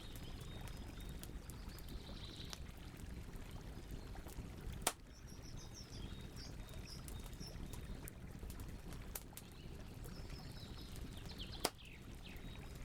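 Wood campfire burning with a steady low rush of flame, scattered crackles and two loud pops, one about five seconds in and one near the end. Birds chirp in short series in the background over a faint steady cricket trill.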